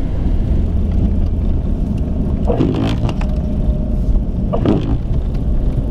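Vehicle driving through snow, heard from inside the cabin: a steady low rumble of engine and road noise.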